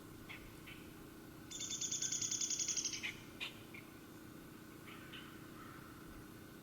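A songbird sings one rapid, even trill of fast repeated high notes lasting about a second and a half, with a few short high chip notes before and after.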